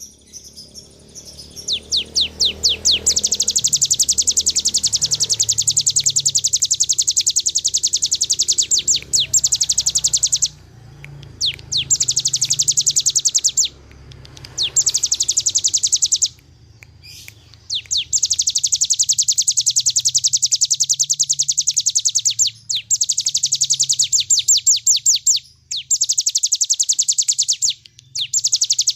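Bar-winged prinia (ciblek gunung) singing its fast 'ngebren' song: long, rapid trills of high notes, each run lasting several seconds with short pauses between. The first run opens with separate notes that speed up into the trill.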